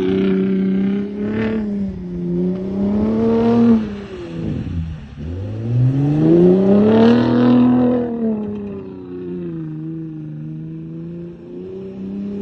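Ford Raptor pickup's engine and exhaust revving. The pitch climbs over the first few seconds, drops deeply about four to five seconds in, swells back up to its highest around seven seconds, then settles to a steady lower note for the last few seconds.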